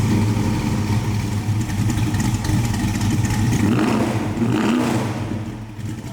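The Ford XW Falcon GT replica's engine running with a deep, pulsing idle, revved up twice around four and five seconds in, then settling and fading near the end.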